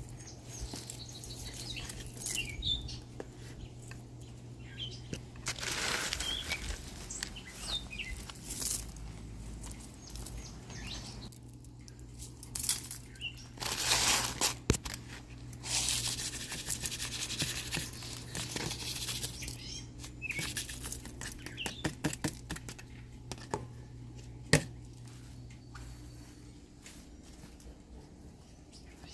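Several bursts of rustling and crinkling, each lasting a second or two, with brief bird chirps in the background and a low steady hum that stops near the end.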